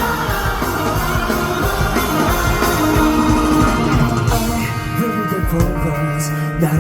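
Live rock band playing an instrumental passage, with electric guitar over bass and drums and no vocals.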